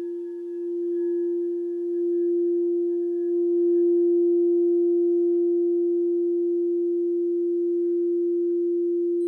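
Alchemy crystal singing bowl sounding one long, nearly pure tone with faint higher overtones, swelling over the first few seconds and then holding steady.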